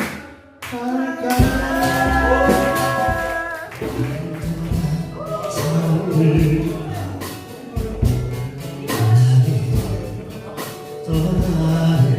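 Acoustic guitars strumming with singing, a song played live, with a brief pause in the sound just after the start.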